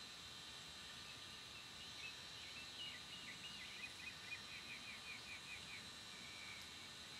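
A songbird singing faintly over a steady background hiss: a few varied chirps about two seconds in, then a quick run of repeated notes that ends shortly before the close.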